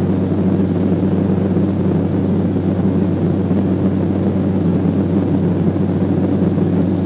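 Twin turboprop engines of a Beech 1900C airliner running steadily. Their propellers give an even, low droning hum.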